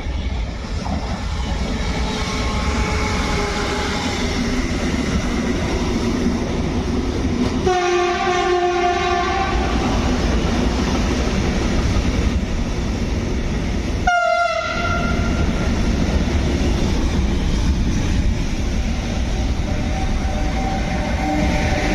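A train passing through the station with a steady loud rush of wheels on rails, sounding its horn: one blast of about two seconds around eight seconds in and a short toot around fourteen seconds.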